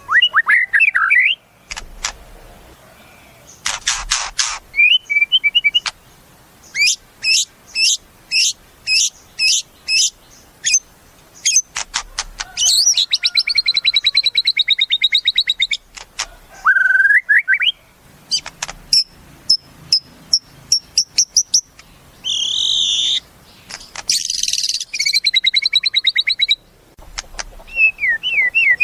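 White-rumped shama (murai batu) singing a loud, varied song: clear whistled notes and slurs, a run of sharp repeated notes about two a second, fast rattling trills, and a couple of harsh buzzy phrases about two-thirds of the way through.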